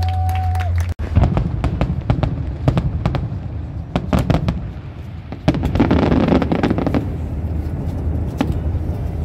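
Fireworks going off: a rapid, uneven run of sharp bangs and pops, with a dense crackling stretch about six seconds in, over a steady low hum.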